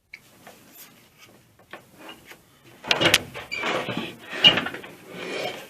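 Handling noises from a disassembled air compressor: a few faint clicks, then from about three seconds in louder clatter, knocks and scraping as parts are worked loose.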